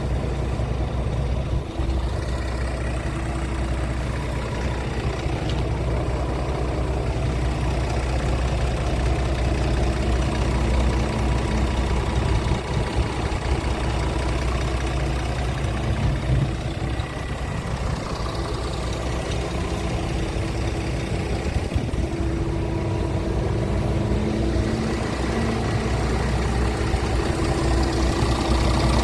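Scania R450 tractor unit's 13-litre straight-six diesel engine idling steadily.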